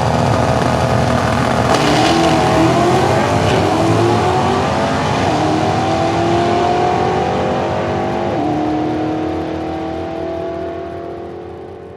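Racing car engine accelerating hard. Its pitch climbs over the first few seconds, then holds fairly steady as the sound gradually fades away toward the end.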